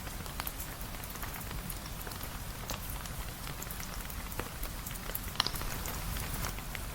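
Steady rain falling, with scattered sharp clicks and pops over it, the loudest about two and a half and five and a half seconds in.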